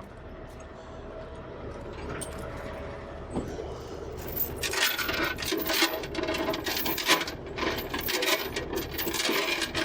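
Steel tie-down chains clinking and rattling as they are handled, starting about halfway in as a busy run of sharp metallic clinks, over a steady low hum.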